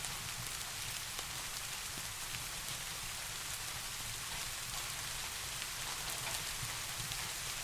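Steady rain: a dense, even hiss of falling rain with many small individual drop ticks, holding level throughout.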